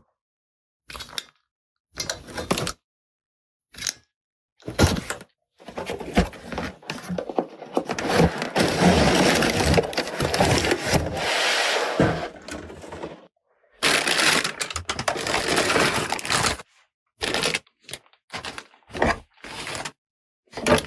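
Close-up toy unboxing handling sounds: plastic packaging and small plastic toy parts being handled and cracked open, in short separate bursts with sharp silences between them and one longer continuous stretch of handling noise in the middle.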